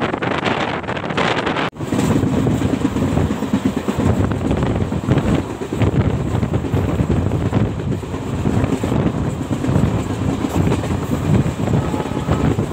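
Passenger train running at speed, heard from on board: steady rumble of the coach on the track with wind buffeting the microphone. The sound briefly cuts out a little under two seconds in, then carries on unchanged.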